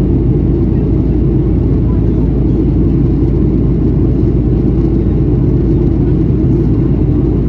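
Steady cabin noise of a Boeing 737-800 in flight: the hum of its CFM56 turbofan engines and the rush of air along the fuselage, heard from inside the cabin. It stays loud and even throughout, with most of its weight in the low rumble.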